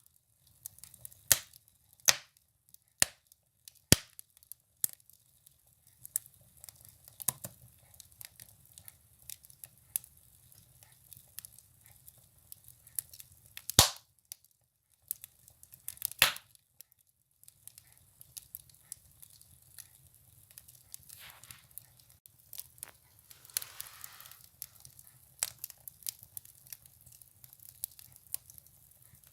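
Firewood burning in a stove, crackling with irregular sharp pops, the loudest two about fourteen and sixteen seconds in, over a faint low hum. A soft hiss rises briefly about two-thirds of the way through.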